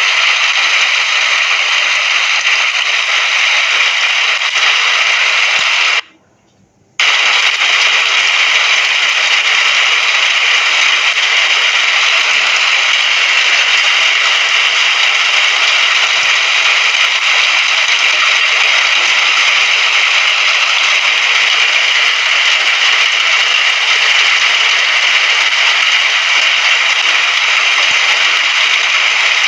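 Steady rain, a dense even hiss that cuts out for about a second some six seconds in and then resumes.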